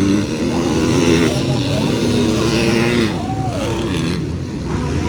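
Motocross bikes' engines running and revving on the track. About three seconds in, one bike's pitch drops.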